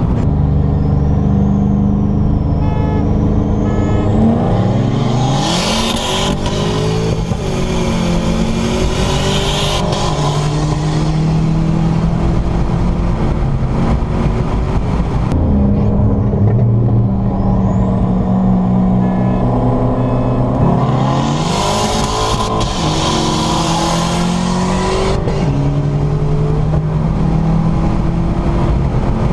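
Car engine heard from inside the cabin, pulling hard twice under full throttle. Each time the note climbs, dips at a gear change, and climbs again, with a high whine rising along with it, and between the pulls it settles into a steady cruise.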